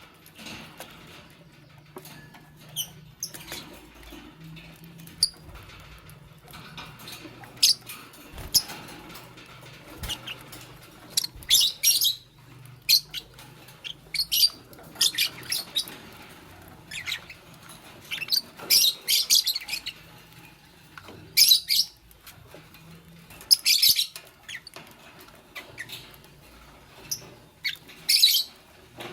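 Fischer's lovebirds giving short, shrill chirps in clusters every few seconds, with light clicks and taps of the birds moving about between them. A faint steady low hum sits underneath.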